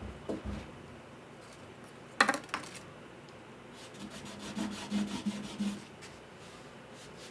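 A hand tool scraping on wood in short strokes: a sharp scrape about two seconds in, then a quick run of strokes from about four to six seconds in.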